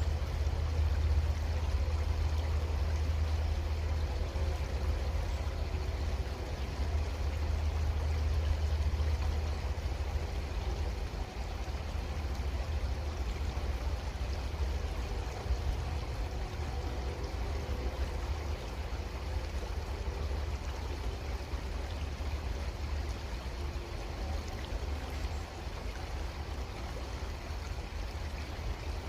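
Creek water flowing and trickling steadily, with a low rumble underneath that is stronger for roughly the first ten seconds.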